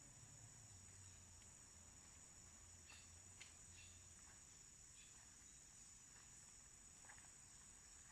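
Faint, steady, high-pitched drone of insects such as crickets, unbroken throughout, with a few soft short chirps scattered through it.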